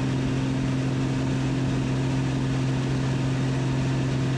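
Pitts Special's engine and propeller droning steadily at a constant pitch in flight, held at power through a level 2 G steep turn.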